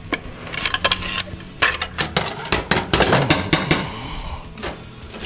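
Steel transmission parts clinking and knocking against each other as the center support of a Ford 5R110W automatic transmission is worked out of the case. A quick run of sharp metallic clicks comes in the middle.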